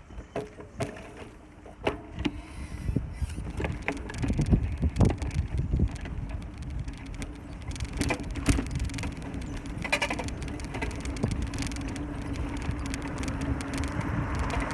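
Bicycle riding along a town street: steady tyre and road rumble with frequent rattles and clicks from the bike. A steady low hum joins about halfway through.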